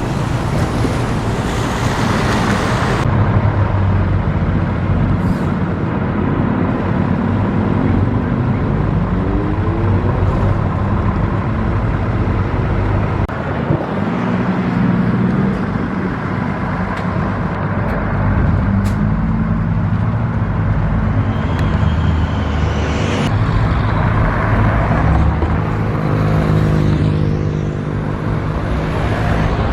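Motor vehicle engines running and pulling away, their pitch rising several times as they accelerate.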